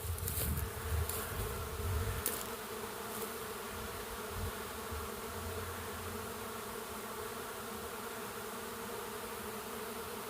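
A honey bee swarm in flight: the steady, even hum of thousands of bees on the wing just after leaving the hive. A few low thumps come in the first couple of seconds.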